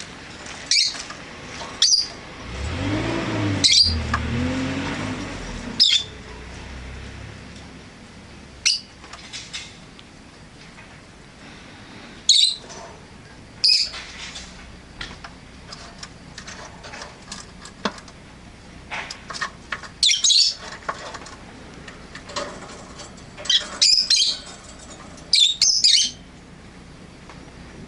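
Rosy-faced lovebirds giving short, sharp, high chirps and squawks, about a dozen calls scattered singly and in quick pairs. A low rumble swells and fades during the first few seconds.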